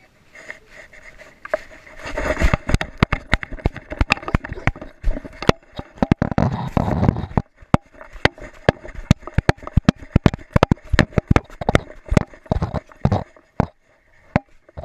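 Rapid, irregular knocks and rattles from a GoPro strapped to a dog as the dog moves, starting about two seconds in, with a longer rubbing, scraping noise around six to seven seconds in.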